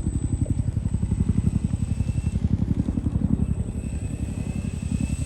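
A small engine running with a rapid, even low throb, and a faint high engine whine from a model plane in the air in the second half.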